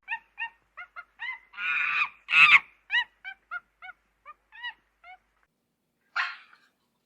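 Waterfowl calling: a quick series of short honking calls, each rising and falling in pitch, about two to three a second, with two louder, harsher calls in the first half and another about six seconds in.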